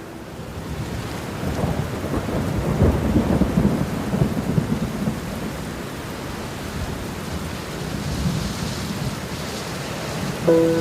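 Steady rain with a roll of thunder that builds about a second and a half in, is loudest around three to four and a half seconds, then dies away. Near the end, held music notes come in over the rain.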